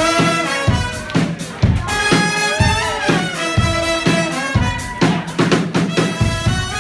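Brass band playing with a drum kit: horns holding and moving between notes over regular drum beats.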